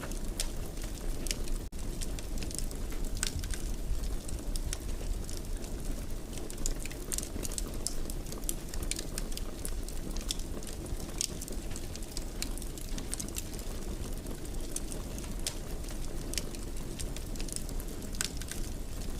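Fire burning in a fireplace: a steady low rush of flames with frequent small crackles and pops scattered irregularly throughout, and a momentary dropout about two seconds in.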